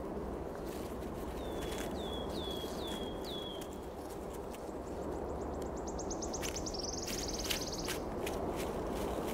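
Small songbirds calling over a steady outdoor background: four short down-slurred chirps, then a fast trill that quickens into a buzzy run a few seconds later, with scattered small clicks and rustles.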